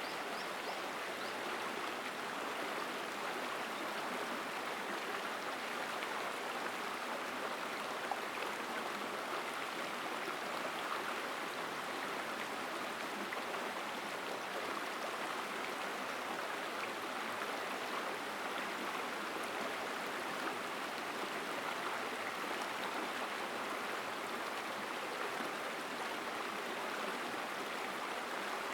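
Mountain stream flowing powerfully through forest, a steady, unbroken rush of water.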